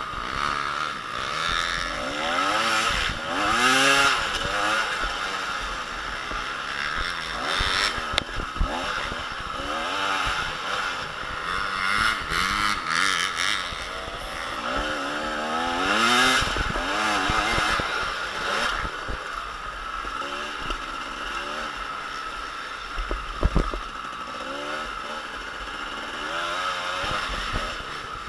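Motocross bikes' engines revving up and down on the track, several at once, their pitch rising and falling again and again as riders work the throttle. Two short sharp knocks come about five seconds before the end.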